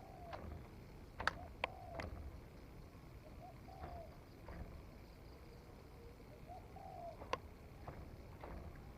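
Spotted dove cooing faintly in repeated short phrases of arched notes, with a few sharp clicks or taps among them.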